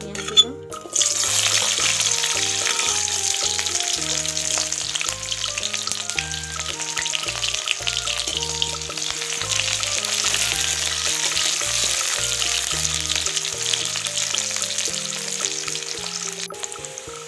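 Chopped onions hitting hot oil in an iron kadai and sizzling loudly as they fry, starting about a second in after a single sharp knock. Background music plays softly underneath.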